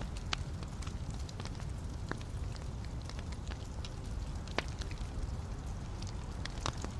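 Wood fire burning in a fireplace: a steady low rumble and hiss with irregular sharp crackles and pops, the strongest a few seconds apart.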